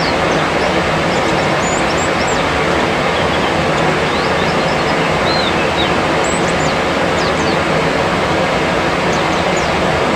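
Scattered short, high chirps of white-eyes (pleci) over a loud, steady rushing noise.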